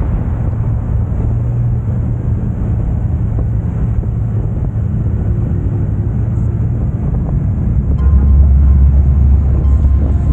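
Engine and wind noise from a moving Can-Am Spyder three-wheeler: a steady engine hum under wind on the microphone. About eight seconds in, a louder, deeper engine rumble comes in.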